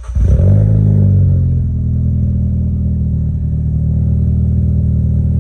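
Ford Fiesta ST200's 1.6-litre turbocharged four-cylinder engine catching from the starter, flaring up in revs and dropping back over the first second or two to a steady idle through its exhaust.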